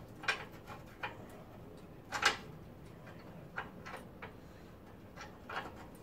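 A few irregular metallic clicks and knocks from coil spring compressors being handled and fitted to a front coil spring, the loudest about two seconds in.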